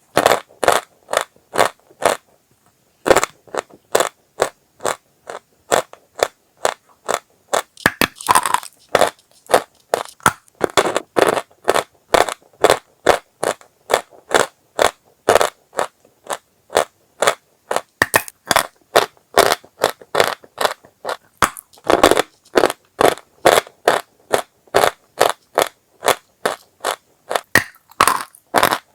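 Dry chalk being crunched: a steady run of separate crisp crunches, about two or three a second, with a short break about two seconds in.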